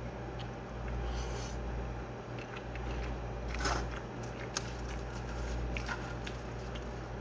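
Close-up eating sounds of a person chewing rice and food taken by hand, with a few soft mouth clicks and smacks over a steady low hum.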